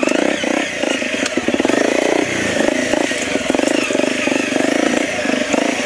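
Honda CRF250L's single-cylinder four-stroke engine running under load on a dirt trail, the throttle opened and closed repeatedly so the revs rise and fall in short surges.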